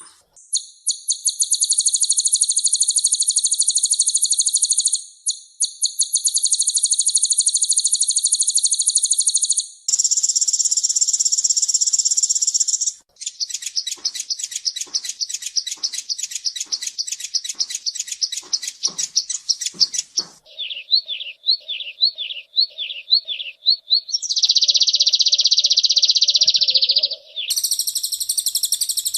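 Kolibri ninja sunbirds singing in rapid, dense, high-pitched trills. The song comes in separate passages of a few seconds each that change pattern every few seconds: some are a continuous fast rattle, others strings of quick rising-and-falling notes.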